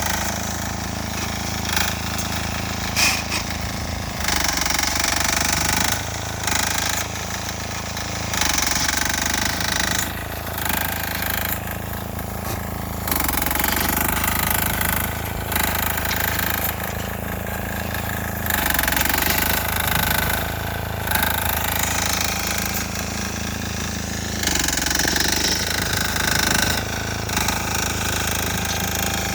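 A 6 hp single-cylinder air-cooled diesel engine on a Sears Suburban garden tractor running steadily with a hard, jackhammer-like clatter, its sound swelling louder for a few seconds at a time and settling again several times.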